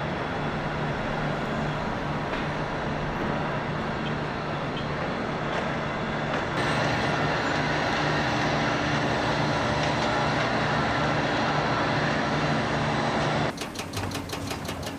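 Heavy diesel machinery running steadily with a low engine hum, the sound shifting about six and a half seconds in; near the end it gives way to a quieter, fast, even clatter.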